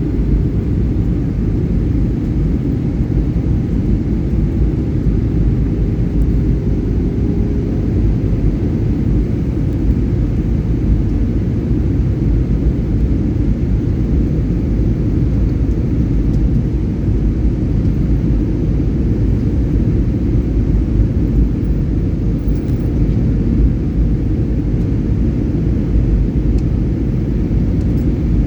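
Steady low roar of an airliner's engines and rushing airflow, with a faint hum that slowly rises a little in pitch.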